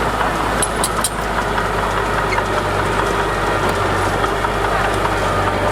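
Diesel engine of heavy earthmoving machinery running steadily at a low, even pitch, with a few faint clicks about a second in.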